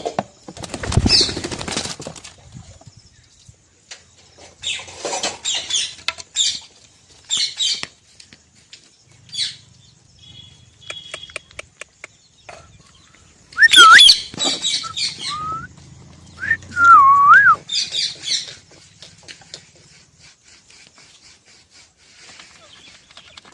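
Pet parrot making noises: scattered bursts of high chirps and rustling, then a few short whistles that bend up and down about two-thirds of the way through.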